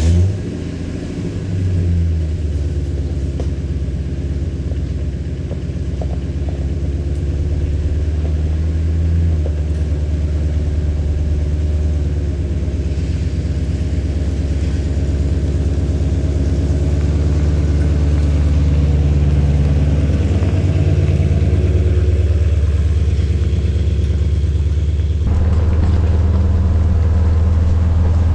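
Ford Excursion truck engine catching as it is started, then running steadily at idle with a low, even hum.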